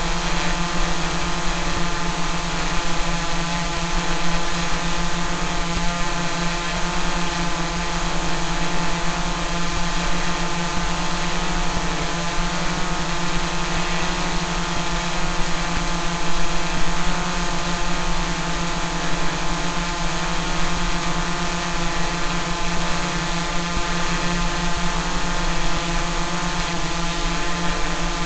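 Small quadcopter drone's propellers and motors buzzing at a steady pitch, as in a hover.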